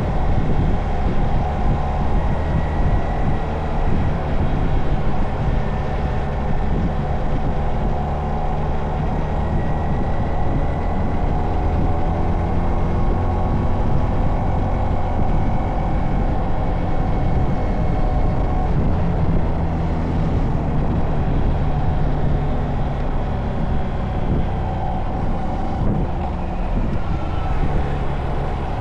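Honda Monkey mini-bike's single-cylinder engine running steadily while riding, its note rising and falling gently with the throttle.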